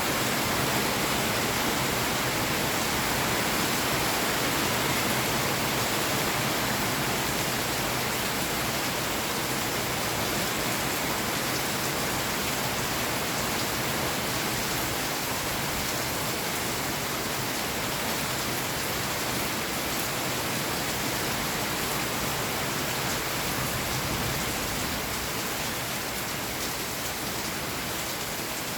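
Steady heavy rainfall, an even hiss of many drops without any thunder.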